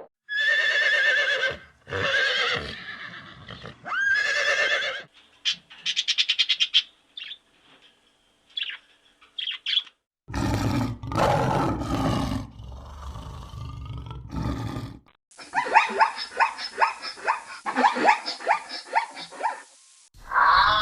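A run of different animal calls, one clip after another: a few long pitched calls, then rapid clucking-like pulses and scattered chirps, then a deeper roar-like call about ten seconds in, and a quick chatter of short repeated calls near the end.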